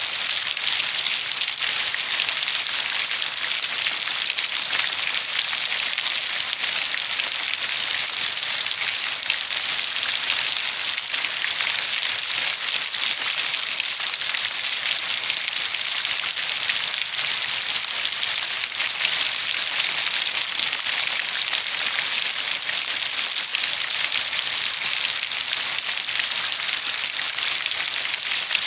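Steady heavy rain falling, an even hiss of many drops with fine patter and no change in intensity.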